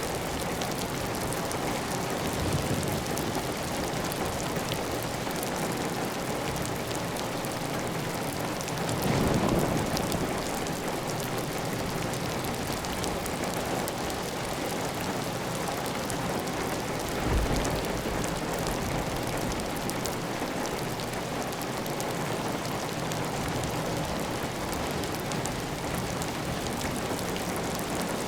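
Heavy, steady rain falling on a clay tile roof, with water running off the roof edge. A few brief low rumbles rise over it, the strongest about nine seconds in.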